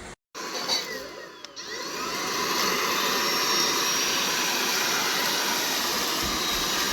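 Eureka RapidClean Pro cordless stick vacuum running. After a momentary dropout, the sound grows louder over the first couple of seconds, then settles into a steady rush of air with a thin high whine.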